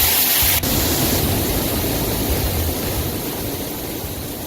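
Waterfall rushing, a steady hiss of falling water. About half a second in it changes abruptly to a duller, less hissy rush, which slowly fades toward the end.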